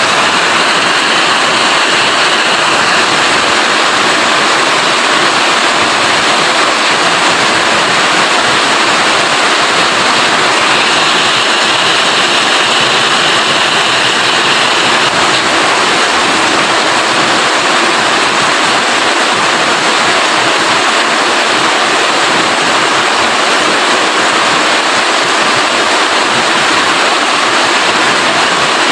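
Rain falling steadily in an even, unbroken hiss.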